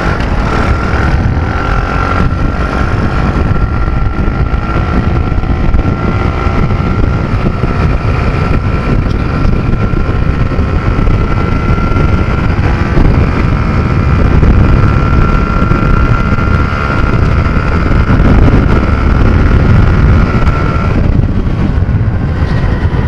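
Nitro Sky 125cc pitbike's single-cylinder four-stroke engine running flat out at high revs on a top-speed run. Its note holds steady with a brief dip about halfway through, over heavy wind rush on the camera microphone.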